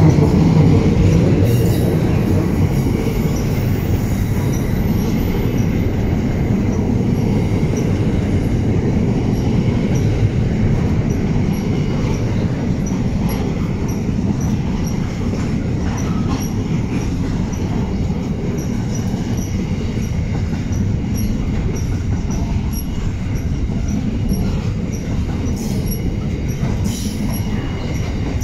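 Intermodal freight train's container wagons rolling past: a continuous rumble of steel wheels on the rails, slightly louder in the first couple of seconds and then steady.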